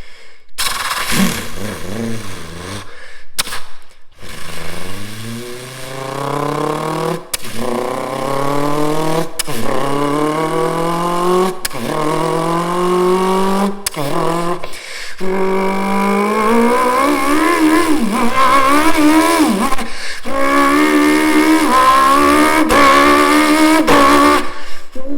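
A man imitating a two-cylinder motorcycle engine with his voice: a few short revs, then pitch climbing steadily and breaking off sharply four times like upshifts through the gears, then a long wavering high cruise note.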